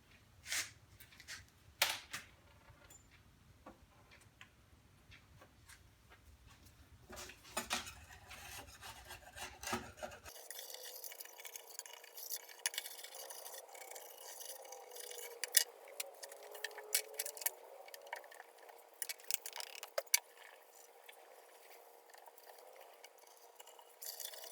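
Workshop handling noises: scattered sharp clicks, knocks and light clinks with some rubbing. About ten seconds in, the low hum drops out abruptly and the clicking and rubbing get busier.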